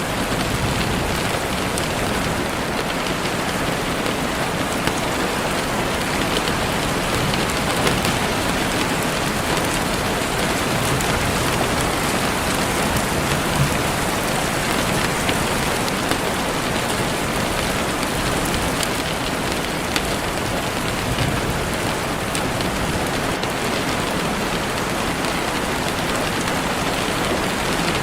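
Heavy rain falling steadily on leaves and the forest floor, a dense even hiss with scattered individual drop taps.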